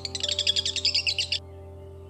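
A small bird chirping in rapid, high twitters that stop abruptly about one and a half seconds in, over steady background music.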